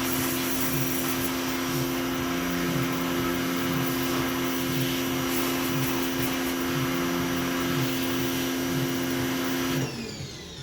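Pressure washer running steadily, its motor humming under the hiss of the spray. A little before the end the motor drops in pitch and winds down as it shuts off.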